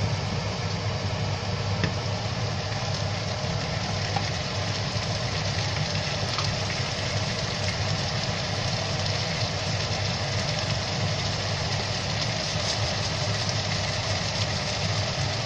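Onions and ginger-garlic paste frying in oil in a non-stick pan, a steady sizzle over a constant low hum.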